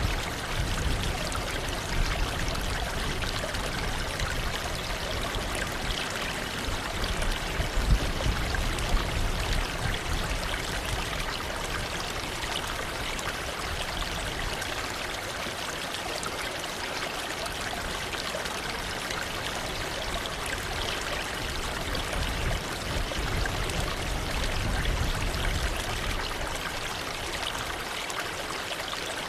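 Waterfall: water falling and splashing in a steady rush, with deeper low rumbles swelling now and then.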